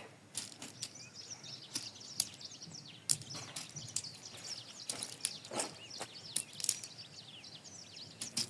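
Small birds chirping and twittering continuously, with scattered light clicks and taps in between.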